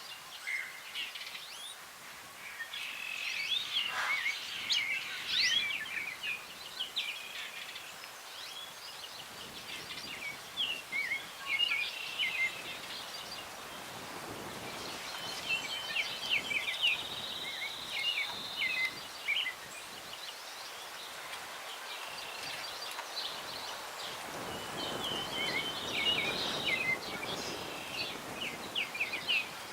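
Several songbirds chirping and singing over breeze rustling through windbreak trees, with one steady whistled note held for about two seconds in the middle. The wind swells twice.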